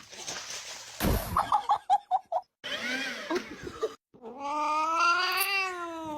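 Short sound clips cut together abruptly: a quick run of about five laugh-like pulses, then a long cat meow that rises and falls in pitch over the last two seconds.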